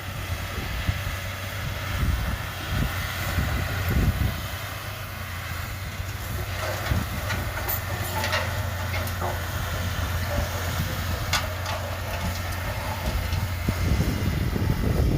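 Komatsu D31P bulldozer's diesel engine running steadily, with a few sharp clicks partway through.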